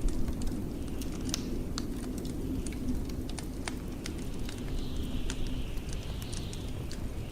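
Wood fire crackling in a fireplace, with irregular sharp pops and snaps over a steady low rumble. A faint high wind whistle swells and fades about five seconds in.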